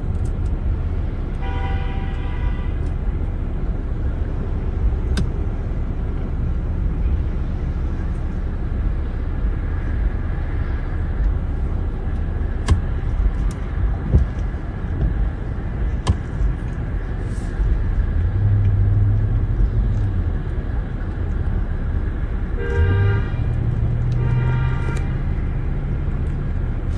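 Car horn honking: one blast of about a second near the start, then two short blasts near the end, over a steady low rumble of vehicle engines. A few sharp knocks come in the middle.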